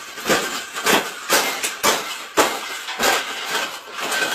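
A bird cage being bent and folded flat by hand, giving a run of sharp clanks and crunches about two a second.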